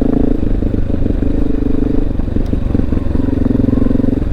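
Honda XR650L's single-cylinder four-stroke engine running at a steady, low pitch while the motorcycle is ridden, with its throttle note coming and going. Tyres crunch and rattle on gravel under it.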